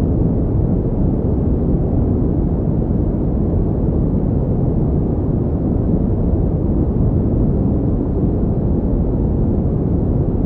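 Steady pink noise played as a sleep and focus sound: an even, deep rushing hiss with most of its weight in the low range and little above the mids, unchanging throughout.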